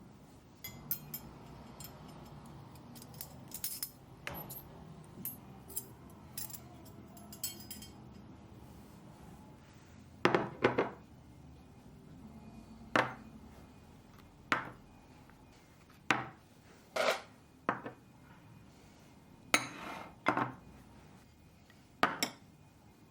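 Dishes and cutlery clinking as they are handled and set down. Light small clicks come in the first several seconds, then about nine separate sharper knocks and clinks spaced a second or two apart.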